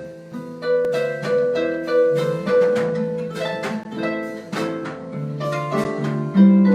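Concert harp playing jazz, with plucked notes and chords ringing and dying away one after another.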